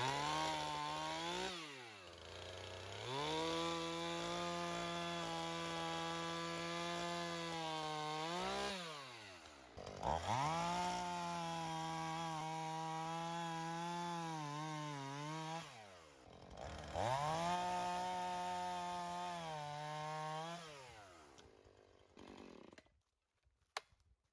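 Chainsaw cutting wood in three long passes. It revs up to a steady high pitch for each pass and drops back between them, and the pitch sags now and then under load. It shuts off near the end, followed by a single click.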